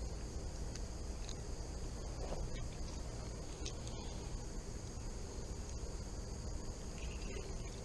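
Steady high-pitched insect chorus, crickets trilling without a break, over a low even rush of outdoor noise, with a few faint clicks.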